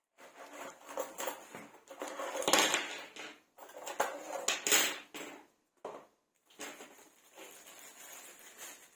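Packaging and small parts being handled out of a shipping box: irregular rustling with sharp clicks and clatter of hard pieces, loudest about two and a half seconds in and again around five seconds.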